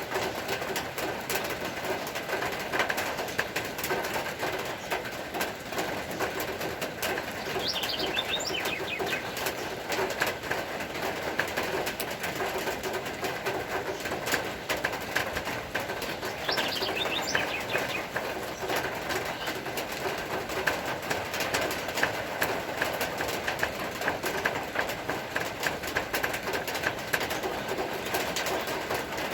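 Rain falling steadily, a dense patter of drops, with birds calling; a short high run of chirps comes about eight seconds in and again about seventeen seconds in.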